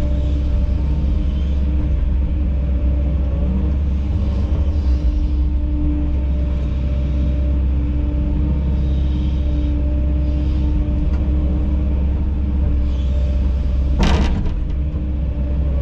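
Kobelco SK210LC-10 excavator's diesel engine running steadily at working speed, a low rumble with a constant drone. A single sharp knock sounds near the end.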